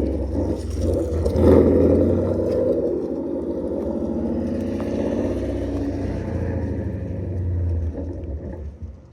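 Car engine running at low revs with a deep, steady exhaust rumble, briefly louder about a second and a half in and fading out near the end.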